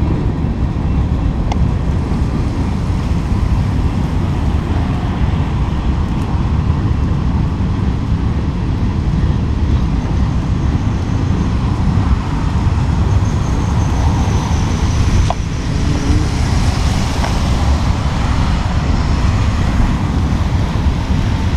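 Freight train cars rolling past with a steady loud rumble.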